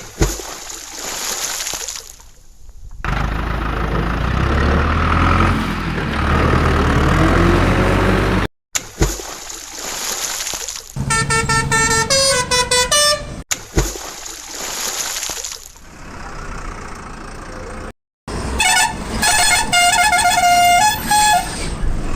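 A run of short, abruptly cut vehicle sound clips: a low engine rumble, then horns sounding a tune in stepped notes twice, near the middle and near the end.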